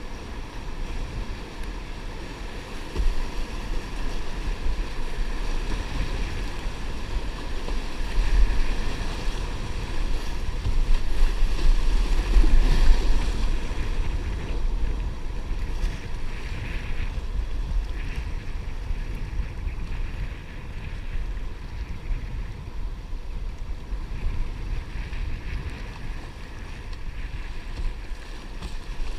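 Wind rumbling on the microphone, gusting hardest around the middle, over the wash of water around a kayak.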